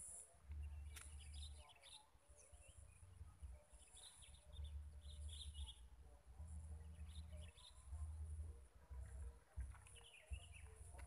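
Faint birds chirping on and off, over a low rumble that comes and goes.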